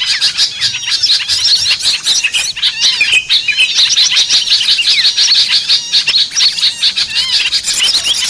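Dense chorus of many small songbirds chirping and twittering at once, rapid overlapping calls and trills: a recorded bird-lure of noisy small birds, played to draw wild birds down.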